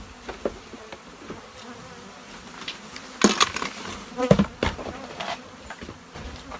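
Africanized honey bees buzzing steadily around their hive in a boat. Two short bursts of clattering and rustling, about 3 s in and about 4.5 s in, from things being handled and put back.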